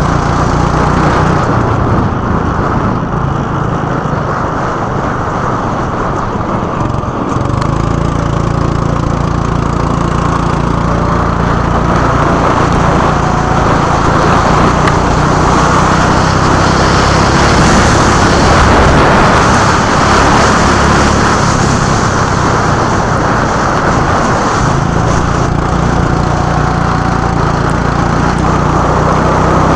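Go-kart engine running on track, its pitch shifting as it speeds up and slows, with a dip around seven seconds in.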